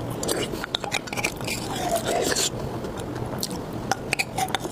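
Close-miked eating: chewing with wet mouth clicks and smacks, a rapid scatter of short sharp sounds.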